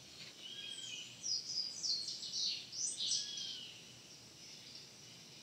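A small bird singing: a quick run of high chirps, each sliding down in pitch, from about a second in to about three and a half seconds in.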